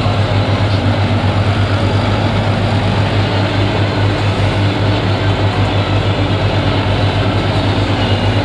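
Tractor's diesel engine running steadily, with a low, rapid, even pulsing throb.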